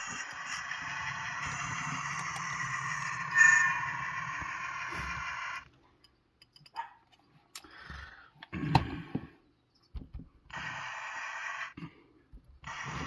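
Model train locomotive running on the layout. Its steady sound cuts off abruptly about halfway through, leaving a few clicks and knocks, then comes back in short spurts as it loses and regains power, which the operator puts down to dirty track.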